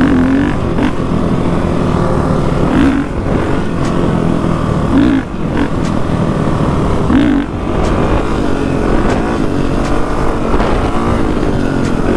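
Dirt bike engine running under way, with wind noise on the microphone; the engine sound dips briefly three times, about every two seconds.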